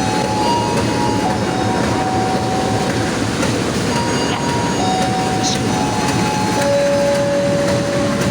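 Passenger train running on the rails: a steady, loud rumble and rattle, with a few faint steady tones that shift in pitch.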